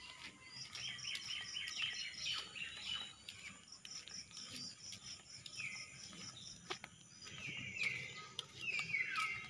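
Songbirds chirping and singing in runs of quick repeated notes, strongest in the first few seconds and again near the end, with a few faint taps.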